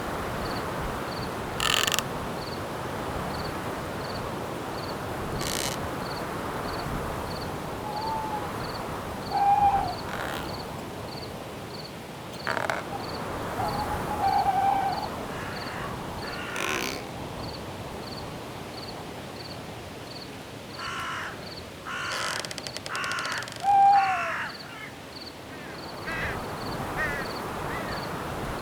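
Night forest ambience: a steady wash of background noise under a faint high insect chirp repeating about three times a second, with scattered harsh bird calls and a quick run of several calls a little past two-thirds through.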